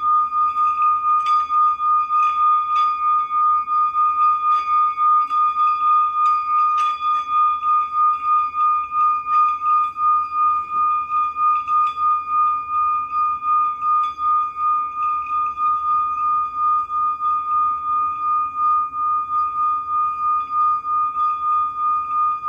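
Singing bowl sounding one sustained high tone that wavers in a steady pulse, about three swells a second. Light clicks are scattered through the first half.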